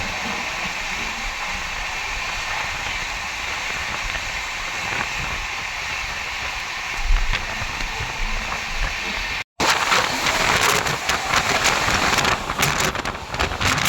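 Running noise of a moving passenger train: a steady rushing hiss. After an abrupt cut about two-thirds of the way in it comes back louder and rougher, with a rapid clatter of clicks.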